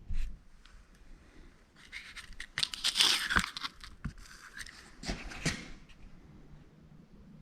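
Handling noises: bursts of rustling and scraping with a few sharp knocks, the loudest stretch about halfway through.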